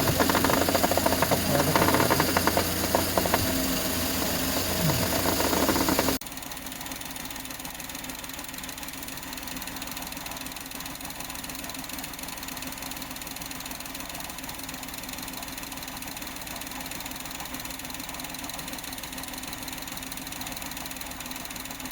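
A car's front suspension knocking and clattering loudly for about six seconds, the noise of a faulty front strut. Then an abrupt cut to a quieter, steady engine running.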